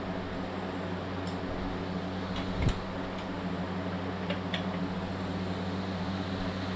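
Steady mechanical hum, with a few light clicks of hand tools on metal and a soft knock about two and a half seconds in, as work goes on taking apart a tractor engine.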